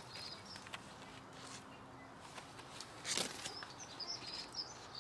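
Small birds chirping faintly in short, high calls, with a brief rustle about three seconds in.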